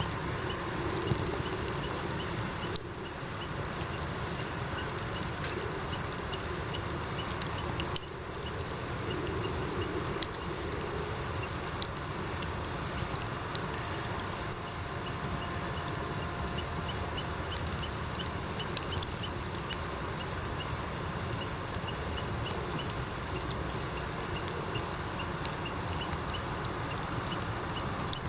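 Campfire of burning wood crackling, with irregular sharp pops over a steady hiss.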